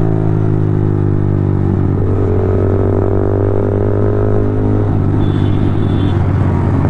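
Yamaha R15 V4m's 155 cc single-cylinder engine running through a LeoVince full-system aftermarket exhaust while riding at steady revs. The note changes about two seconds in and turns rougher near five seconds.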